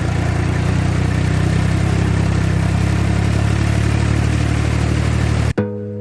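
Tractor engine running steadily under load while ploughing, a low even drone. It cuts off suddenly near the end as music begins.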